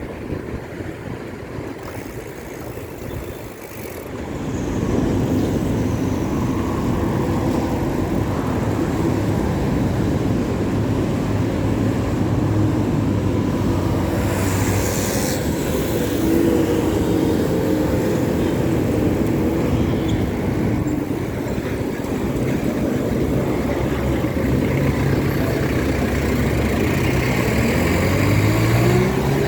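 Road traffic passing close by: motor vehicle engines running, getting louder about five seconds in, with a vehicle's engine rising in pitch as it accelerates near the end.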